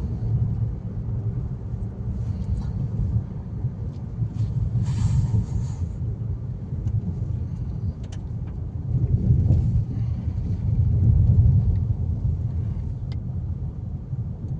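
Steady low rumble of a moving road vehicle, swelling louder for a few seconds in the second half, with a brief hiss about five seconds in.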